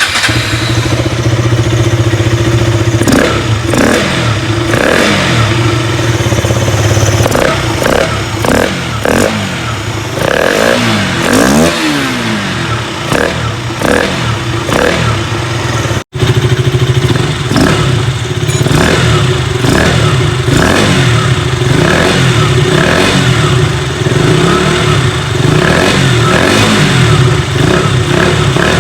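KTM Duke 200's single-cylinder engine, breathing through a freshly fitted K&N free-flow pod air filter, running at idle for a few seconds and then revved again and again, the pitch rising and falling with each blip of the throttle. There is a brief gap in the sound about sixteen seconds in.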